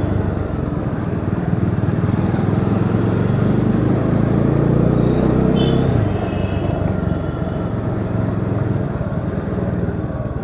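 Bajaj Dominar 400's single-cylinder engine pulling under throttle while riding. The note climbs for about six seconds, then drops as the throttle is rolled off or it shifts, with road and wind noise underneath.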